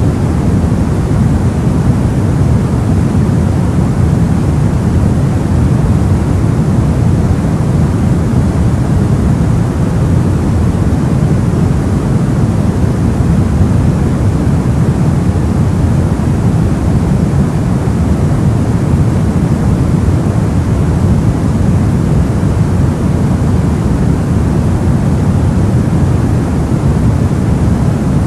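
Soft white noise for sleep: a steady, unbroken hiss, deep and rumbling in the low end and softer toward the top.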